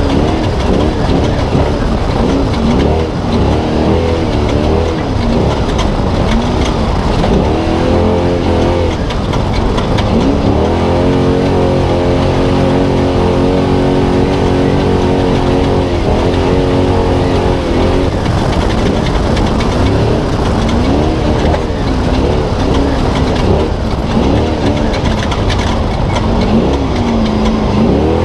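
Spec Trophy Truck's engine heard from onboard at racing speed, revving up and dropping off again and again as the driver works the throttle, with a longer held high-rpm pull about ten seconds in.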